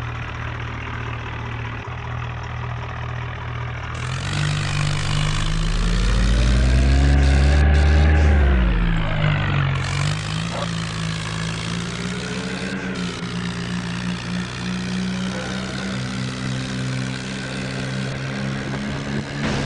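Swaraj 855 tractor's three-cylinder diesel engine idling, then revved hard about four seconds in: the note climbs to its loudest near eight seconds and falls back. It rises briefly once more and then runs on steadily at a fast idle.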